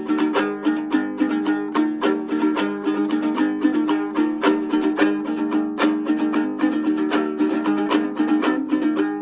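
Instrumental folk music: a plucked string instrument played in quick, even strokes over a steady low drone.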